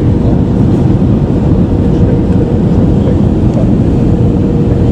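Steady, loud cabin noise inside an Airbus A320-214: a deep rumble of its CFM56 engines and airflow, with a faint steady hum running through it.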